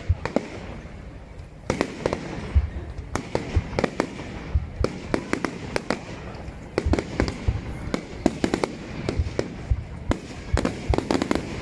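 Fireworks going off: many sharp bangs and crackles in quick, irregular succession, denser from about two seconds in.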